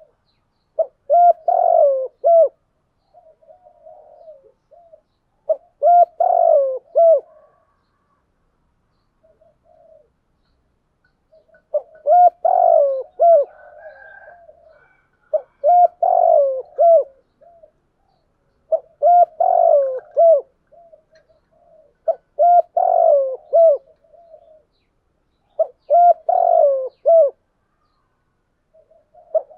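Spotted doves cooing: repeated phrases of several coo notes, each phrase about one to two seconds long and coming every three to four seconds, with softer, quieter cooing in some of the gaps.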